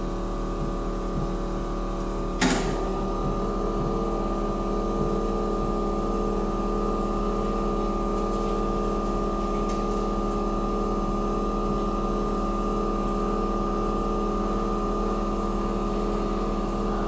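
Steady mechanical hum of an ACF bonding machine running at idle, with one sharp click about two and a half seconds in, after which a faint regular pulsing joins the hum.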